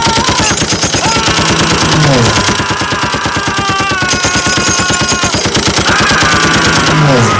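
Sustained rapid machine-gun fire, a fast unbroken stream of shots, with a falling whine twice.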